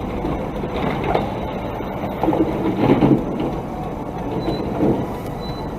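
Vehicle noise: a steady low rumble of a moving vehicle or traffic, with a louder, rougher stretch about two to three seconds in and a brief swell near five seconds.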